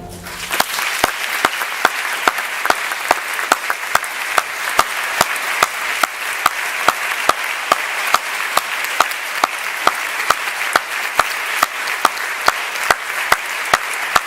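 Theatre audience applauding, with sharp, evenly spaced claps about three a second standing out above the mass of clapping.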